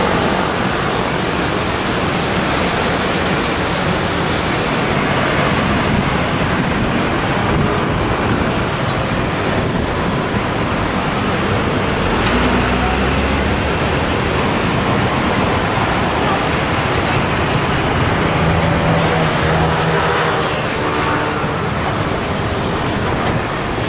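Steady city road traffic noise, with vehicles passing; a low rumble goes by about halfway through.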